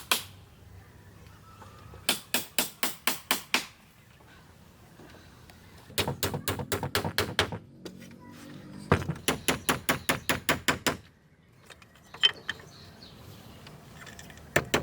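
Quick runs of hammer blows on wood, about five sharp strikes a second, coming in three bursts of one and a half to two seconds each.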